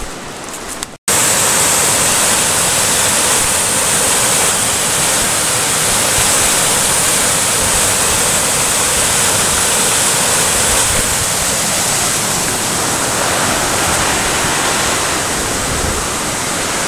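River in spate, running high after heavy rain: a loud, steady rush of water that starts abruptly about a second in.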